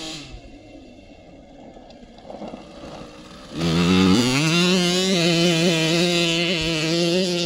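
Small dirt bike engine: low and rough at first, then the throttle opens about halfway through. It rises quickly to a high, steady buzz that holds with slight wavering in pitch.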